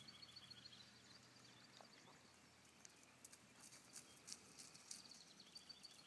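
Faint hoofbeats of a horse on soft ground, with a small bird trilling at the start and again near the end.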